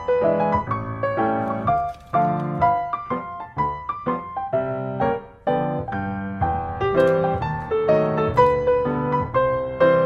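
Background piano music playing a melody over chords.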